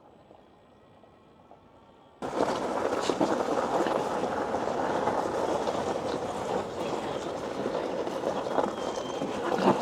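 A faint steady hum, then about two seconds in a loud, steady rushing noise starts abruptly and holds. It is wind buffeting the microphone and road noise from a ride on an electric motorcycle, which has almost no engine sound of its own.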